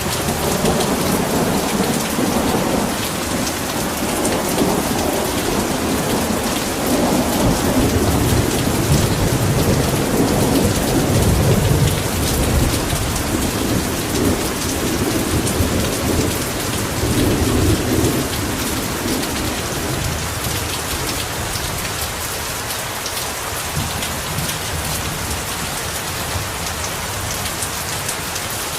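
Heavy rain pouring steadily, with a long rolling rumble of thunder that swells and dies away about two-thirds of the way through.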